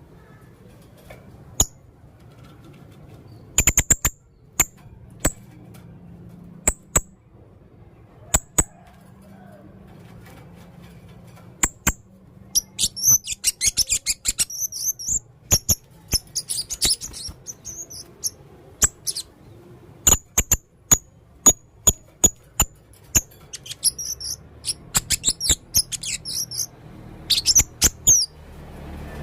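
Male blue-crowned hanging parrot calling: sharp, high-pitched chirps, some single and some in quick runs. Dense twittering comes about halfway through and again near the end.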